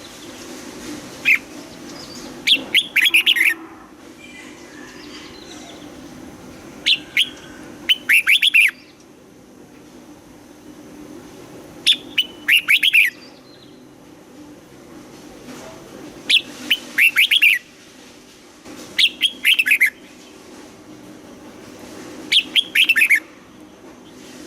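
Red-whiskered bulbul singing: six short phrases of quick, warbling notes, each about a second long, repeated every three to five seconds over a faint steady low hum.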